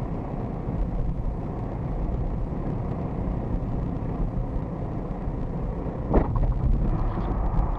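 Steady low rumble of a moving road vehicle, with one sharp, short sound about six seconds in.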